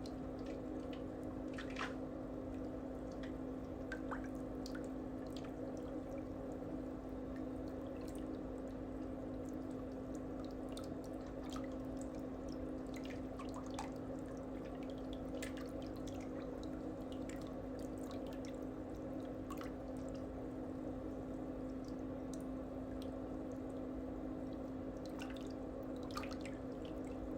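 A steady low electrical hum with a constant pitch, with faint, scattered small clicks and ticks on top.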